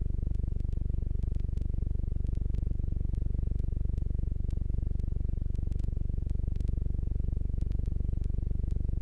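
Jabiru J120's engine and propeller running steadily, a low, evenly pulsing drone at a constant level.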